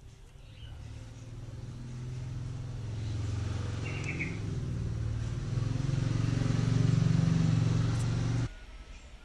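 A vehicle engine running, growing steadily louder for about eight seconds, then cutting off abruptly. A bird chirps briefly midway.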